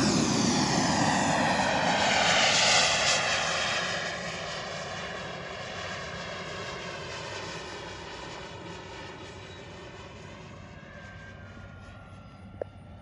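Radio-controlled model airplane flying past, loudest about two to three seconds in and then fading steadily as it flies away.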